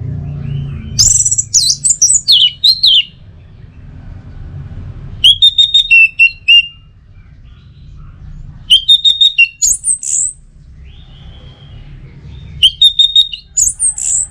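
Orange-headed thrush singing: four short, loud phrases of quick high whistled notes and slurs, a few seconds apart, over a faint low hum.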